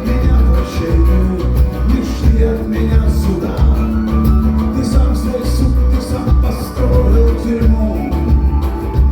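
Band music in an instrumental passage between sung lines, with a strong pulsing bass under the rest of the band.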